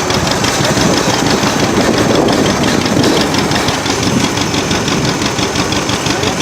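Vintage tractor engine running steadily at close range, a loud, even run of rapid firing knocks.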